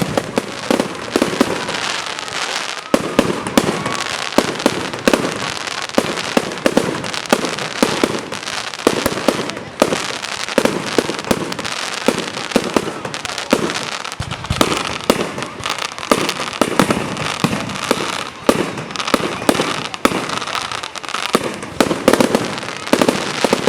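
Fireworks display going off: a rapid, irregular run of sharp bangs and pops over continuous crackling.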